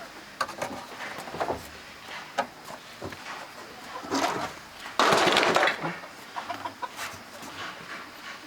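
Domestic fowl calling, with scattered light knocks and clicks and a louder rustling burst about five seconds in.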